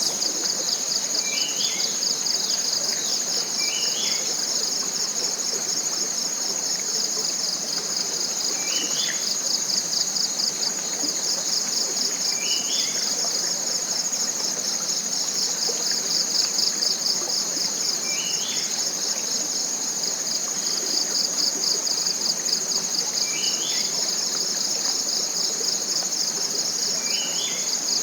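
Dense tropical forest insect chorus: a loud, steady, high-pitched trill with a fine rapid pulse. Over it, a bird gives a short rising note every few seconds.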